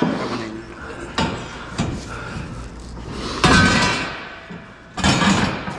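A few knocks and clanks of scrap metal being handled, the loudest and longest about three and a half seconds in.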